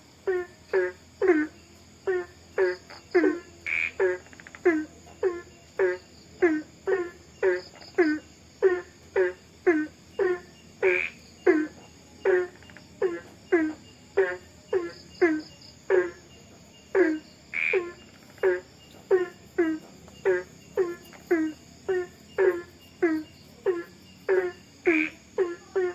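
A frog calling over and over, a short falling croak about twice a second, over the steady high trill of insects. Every seven seconds or so a brighter, higher call stands out.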